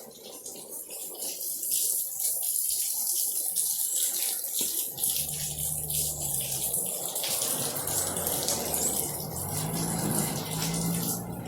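Steady rain falling and splashing on wet ground, an even hiss that thickens in the second half. A low hum comes in twice, about halfway through and again near the end.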